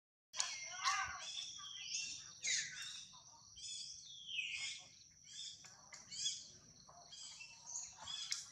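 Birds chirping and calling, many short rising and falling notes overlapping one another.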